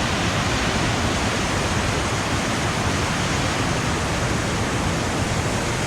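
Storm-swollen mountain creek rushing over rocks as whitewater, a loud steady wash of water noise.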